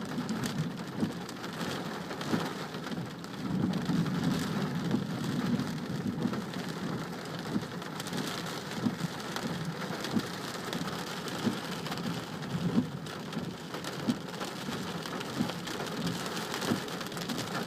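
Heavy rain falling steadily, with scattered sharp ticks of drops striking close by. A low rumble of thunder swells and fades a few seconds in.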